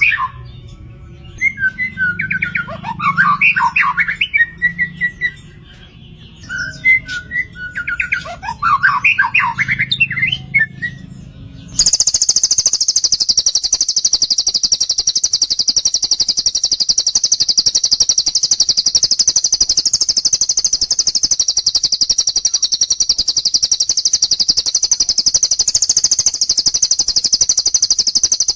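Recorded cage-bird song: three short warbling, chattering phrases a few seconds apart. About twelve seconds in, it cuts abruptly to a loud, continuous, very high-pitched rapid trill.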